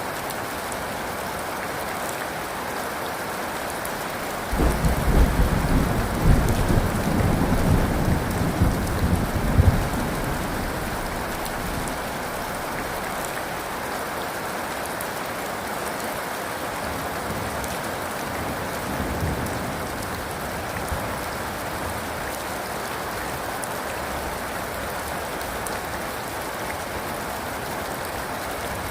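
Steady rain falling, with thunder that breaks in suddenly about four and a half seconds in and rumbles for about five seconds as the loudest sound. A much fainter low rumble of thunder comes later.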